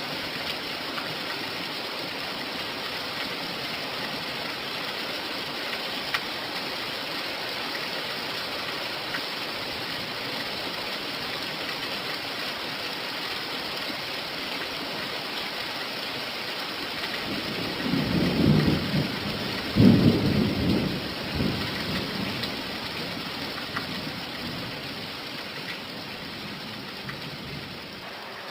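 Steady rain falling, with a rumble of thunder past the middle that comes in two swells and dies away over several seconds.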